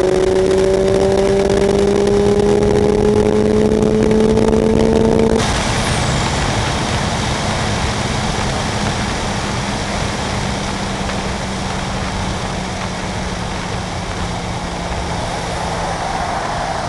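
Mazda RX-7's rotary engine at full throttle in a third-gear pull, climbing steadily in pitch, then cut off abruptly about five seconds in as the throttle is lifted. After that, heavy wind and road noise with a low steady hum as the car coasts down from around 135–140 mph, heard from inside the cabin.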